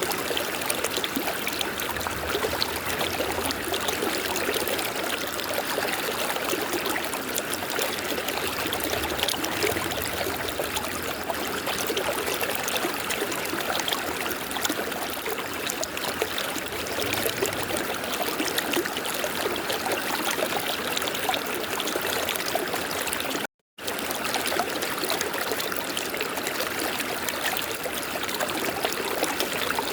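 River water flowing and rushing steadily over rocks, an even splashing and trickling. The sound cuts out completely for a split second about three-quarters of the way through, then resumes unchanged.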